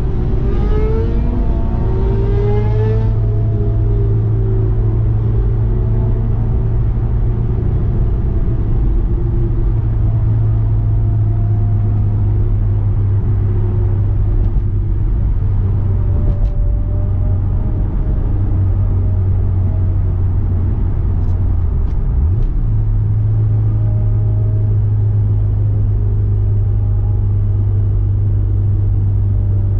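Honda S2000's 2.2-litre four-cylinder engine and tyre and road noise heard from inside the cabin, cruising on the highway while slowly losing speed: a steady low drone. About two-thirds of the way through, the engine note briefly dips and then jumps back up.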